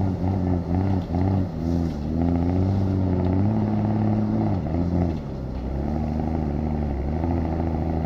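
Engine of an old Ford truck running under load, with a steady deep note. The pitch wavers in the first couple of seconds, holds, then drops about five seconds in and settles at a lower steady speed.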